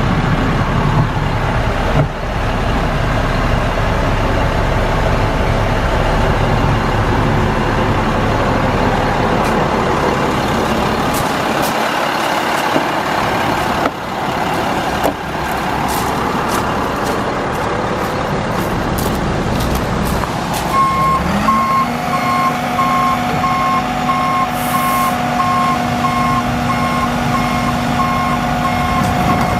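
International 7300 truck's DT466 diesel engine running. About 21 seconds in, the engine note rises to a steady higher pitch and a warning beeper starts sounding in short repeating beeps.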